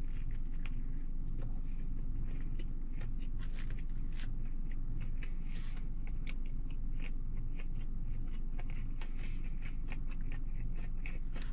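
Someone biting and chewing a bacon sandwich close to the microphone, with many scattered crackly ticks over a steady low hum.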